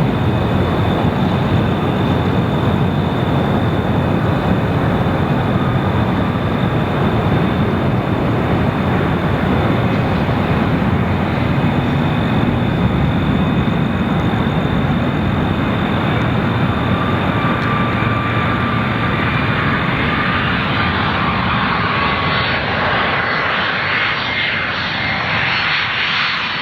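Airliner's engines running loud and steady, with a high whine over the roar; the sound grows brighter in the last few seconds.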